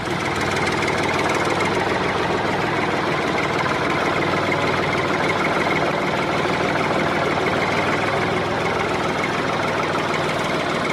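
Small motor driving a DIY mini rice thresher, running steadily at an even level.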